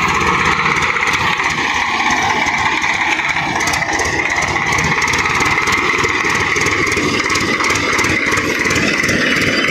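Swaraj 744 XT tractor's diesel engine running steadily at a constant level.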